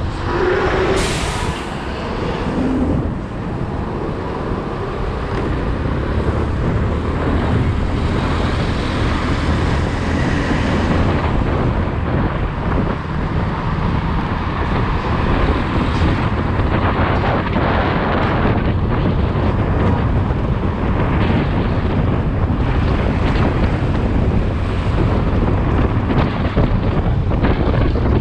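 Wind buffeting the microphone on a moving motorcycle, over the motorcycle's engine and road noise, with a brief sharp hiss about a second in.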